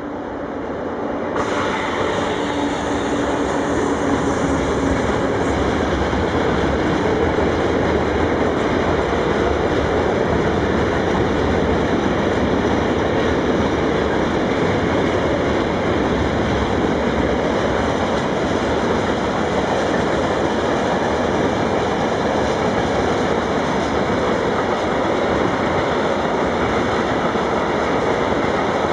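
Freight train passing close by. The noise builds over the first couple of seconds, then holds as a long, steady rumble of wagons rolling over the rails with some clickety-clack.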